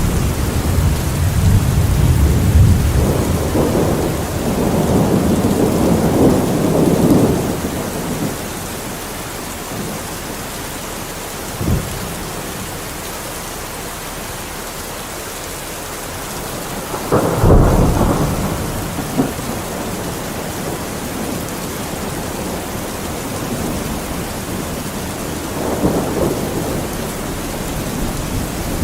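Steady rain falling, with thunder over it: a long rolling rumble through the first eight seconds, a short sharp clap about twelve seconds in, a louder crack and rumble a few seconds later, and a softer rumble near the end.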